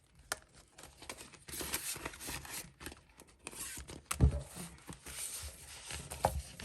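Paper money and a savings-challenge binder being handled: irregular rustling and crinkling with small clicks, and a soft thump about four seconds in and another near the end.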